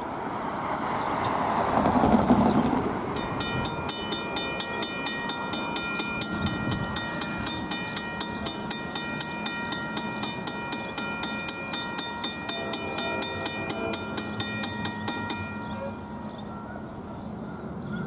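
Railroad grade-crossing warning bell ringing in quick, even strikes, about three to four a second, for roughly twelve seconds before it stops. Just before it starts, a louder rush of rail-side noise swells and fades about two seconds in.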